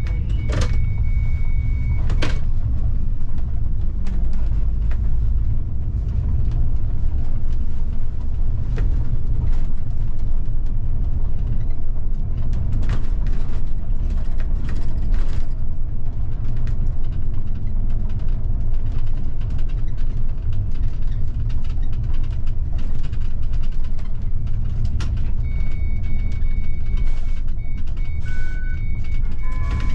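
City bus heard from the driver's cab while under way: a steady low rumble of engine and road with scattered clicks and rattles. A thin steady high tone sounds for the first couple of seconds and again through the last few seconds.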